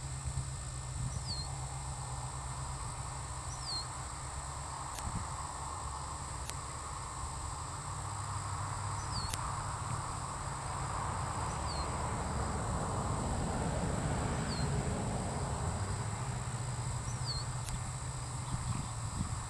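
Twin-turbo 406 small-block Chevy V8 idling steadily, a low even hum that swells a little in the middle. A bird gives short falling chirps every couple of seconds over it.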